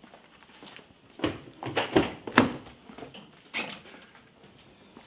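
A handful of irregular clicks and knocks, the loudest about two and a half seconds in: the plastic charging-port lid on the nose of an electric car being opened and handled.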